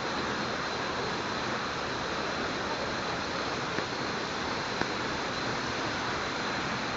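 Waterfall: a steady rush of falling water, with two faint ticks near the middle.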